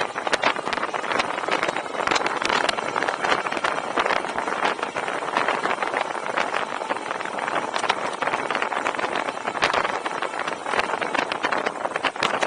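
Wind buffeting a camera microphone while riding a fat-tire electric bike: a steady loud rushing with constant crackling.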